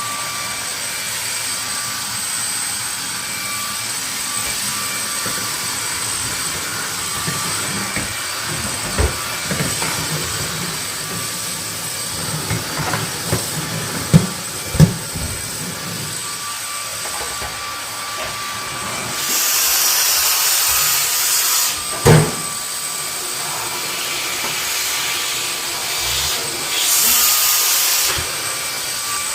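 Vacuum cleaner running steadily with a high motor whine. Scattered knocks and bumps come in the middle, and a loud thump about three quarters through. The airflow rushes louder twice, about two-thirds through and near the end.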